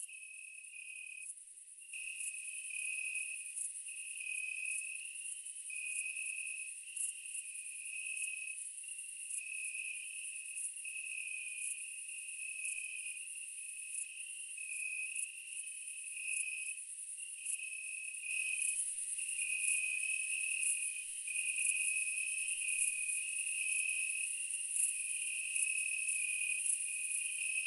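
Night insects, crickets, chirping: a steady high trill over a lower chirp that pulses about once a second, swelling louder about two-thirds of the way through. No low rumble or blast from the eruption is heard.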